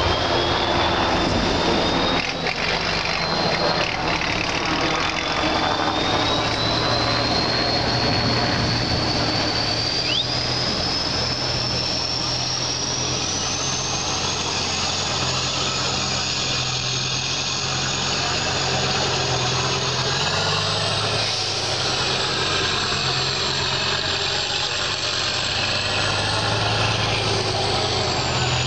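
Off-road trial truck's engine running under load, with a high whine above it that climbs slowly in pitch and jumps up a little about twenty seconds in.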